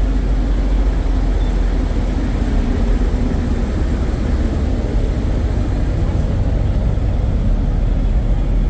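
Steady low rumble of idling diesel engines, most likely semi trucks, running evenly without revving or pauses.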